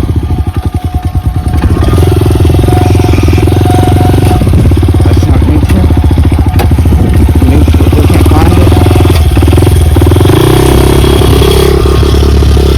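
Dirt bike engine running under load. It chugs unevenly at low revs for about the first second and a half, then picks up into a steady, loud drone, and the pitch shifts around ten seconds in.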